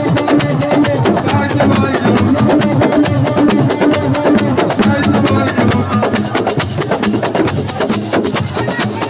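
Live Senegalese assiko percussion music: fast, dense drumming with sharp clicking strokes.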